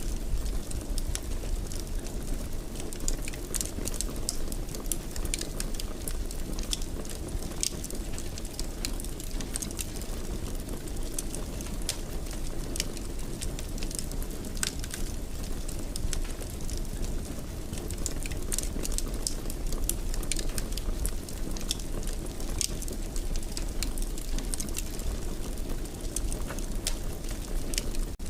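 Wood fire crackling in a fireplace: frequent irregular sharp crackles and pops over a steady low rumble of burning.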